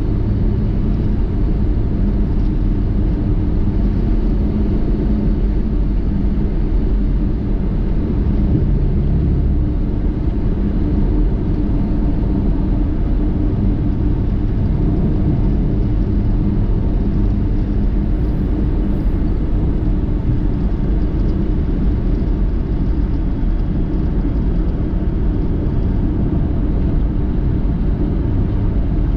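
Steady low rumble of a vehicle on the move, from engine and road noise, with no sudden events.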